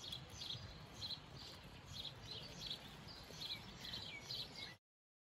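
Small birds chirping faintly, short high calls about three a second over a low background rumble; the sound cuts off suddenly near the end.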